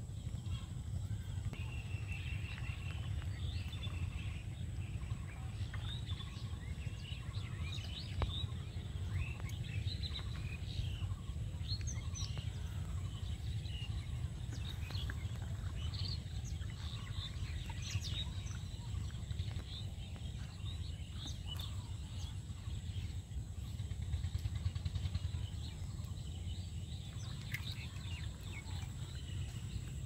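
Small birds chirping and calling, short chirps scattered throughout, over a steady low rumble.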